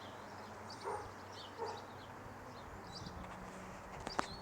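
Small birds chirping steadily in the background, with two short lower sounds about one and one and a half seconds in and a sharp click near the end.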